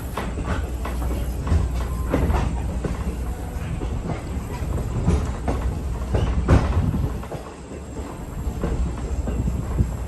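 Passenger train car rolling along the track: a steady low rumble with irregular clacks and knocks as the wheels pass over rail joints.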